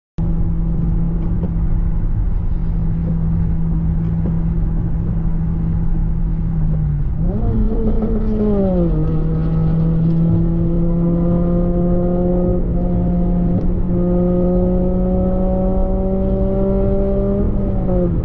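Vehicle engine running under way. Its pitch rises and falls back about seven seconds in, then climbs slowly as the vehicle accelerates, and drops again near the end.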